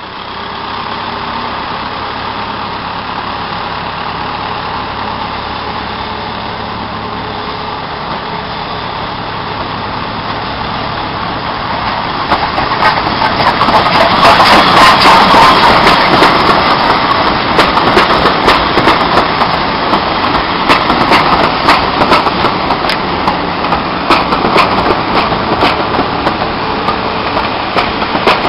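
Steam-hauled train approaching and rolling past close by, loudest as the locomotive goes by about halfway through, followed by the coaches' wheels clicking over the rail joints.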